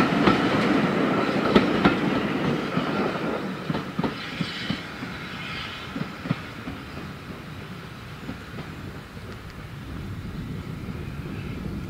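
Steam train carriages' wheels clicking over the rail joints as the train runs away, the clatter fading over several seconds.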